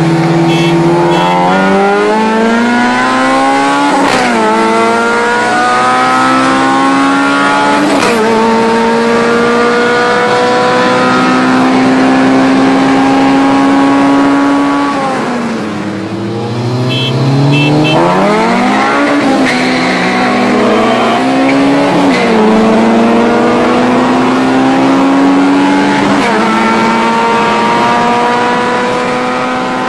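Four-cylinder car engine pulling hard at full throttle in two roll races. Its pitch climbs and drops sharply at each upshift, about four and eight seconds in, then falls as it backs off around fifteen seconds. A second pull climbs from about seventeen seconds, with shifts near nineteen, twenty-two and twenty-six seconds, and fades near the end.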